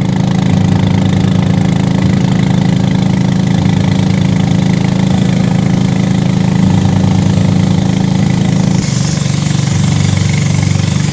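A small engine running steadily at a constant speed. About nine seconds in, its tone changes and a hiss comes in.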